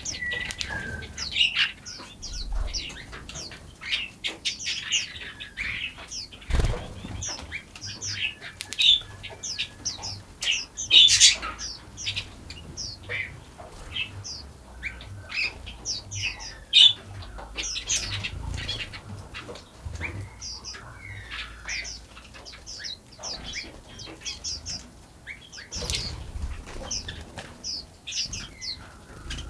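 A dense chorus of small songbirds chirping and singing, many short high chirps and trills overlapping throughout. Two sudden low thumps stand out, about a quarter of the way in and again near the end.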